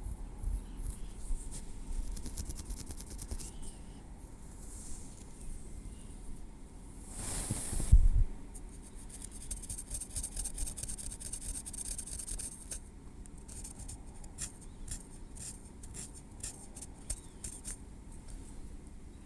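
Tweezers working through hair against the scalp: a run of small, sharp ticks and light scraping. A single louder brushing rustle comes about eight seconds in.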